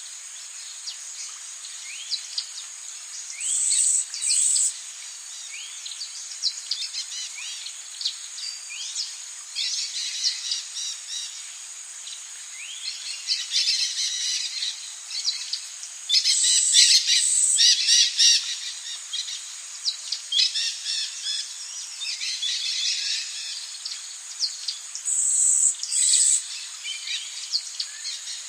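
Rainforest birds chirping: many short, rising calls overlap, with louder flurries about four seconds in, around the middle and near the end. A steady high-pitched insect drone runs underneath.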